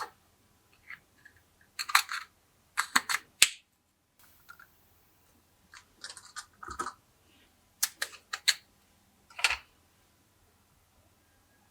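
Glossy slime being pressed and stretched by hand, giving clusters of short, sticky clicks and pops with pauses between.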